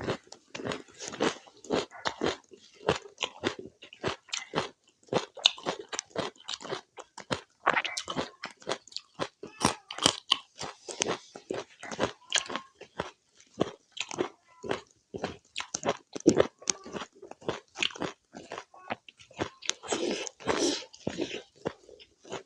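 Close-miked chewing and crunching of spicy pork curry with rice: a steady run of quick crunches and bites, several a second.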